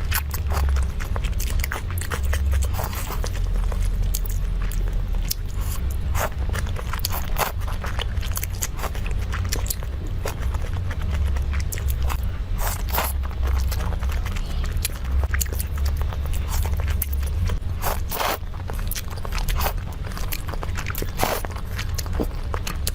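Close-miked eating: a person biting and chewing, with crunches and irregular sharp clicks over a steady low rumble.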